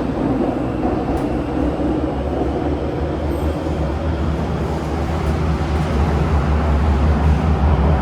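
Kawasaki-CRRC CT251 metro train running at speed, heard inside the carriage: a steady heavy low rumble from wheels on rail that grows a little louder in the second half. The rumble comes from a train whose wheels are flatted.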